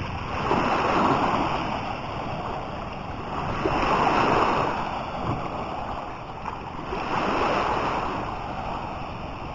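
Sea waves breaking and washing up the beach, swelling and ebbing about every three seconds.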